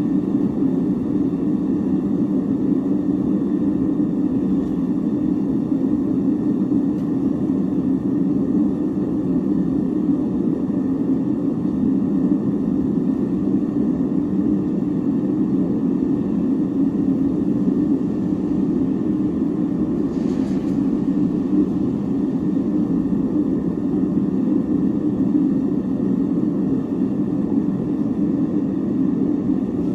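Steady roar of a gas torch melting silver for a sand-cast pour, even in level throughout. A brief faint higher hiss or scrape comes about two-thirds of the way through.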